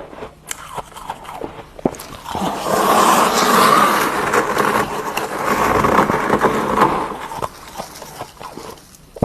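Freezer frost being scraped: a few light clicks, then a long grating scrape lasting about five seconds that fades out near the end.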